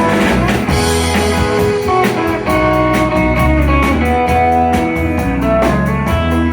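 Live country band playing an instrumental break between sung lines: guitar lead over bass and drums with a steady beat.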